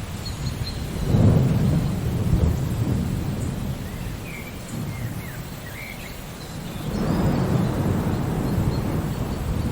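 Steady rain with rolling thunder: a low rumble swells about a second in and fades slowly, and a second one builds about seven seconds in.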